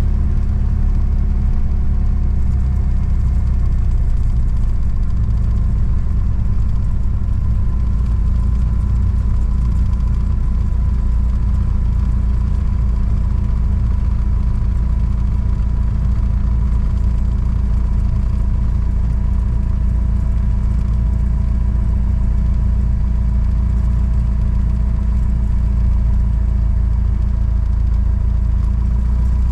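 Mooney M20J's four-cylinder Lycoming engine running steadily, a low drone with a few faint steady whines above it.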